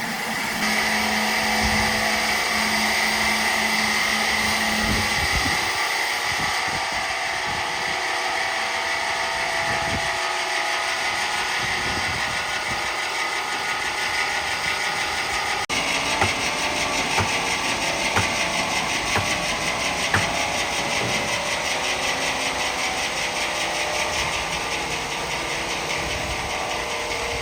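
Heavy machinery engine running steadily, with a low hum in the first few seconds and scattered light knocks in the second half.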